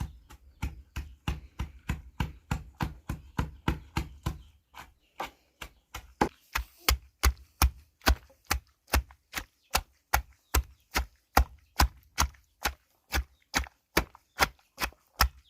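Steady, even chopping strokes on a board, about three a second, fainter at first and louder from about six seconds in.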